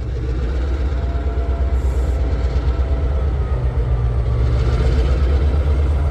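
Diesel locomotive engine running with a deep, fast-pulsing throb, slowly getting louder.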